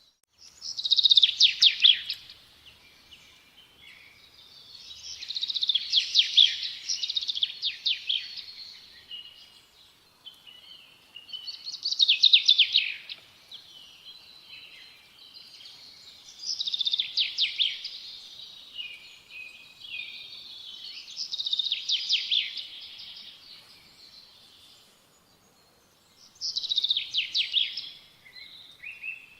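A songbird singing a phrase of fast trilled notes, repeated six times about five seconds apart, with faint outdoor background noise between the phrases.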